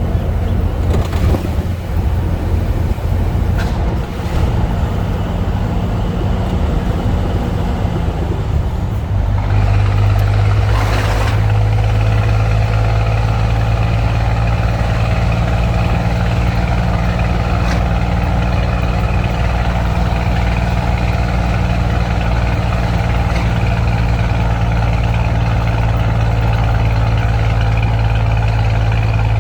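Scania truck's diesel engine running through a straight, unsilenced exhaust, a steady low drone. About nine to ten seconds in the note steps up and gets louder, then holds even. A brief hiss comes about eleven seconds in.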